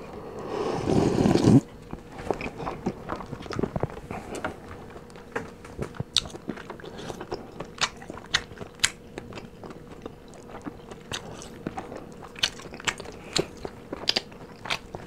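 Close-miked eating of crispy fried chicken: a run of sharp, uneven crunches and mouth clicks as the crust is bitten and chewed. Near the start comes a louder second of noise, a swallow of cola.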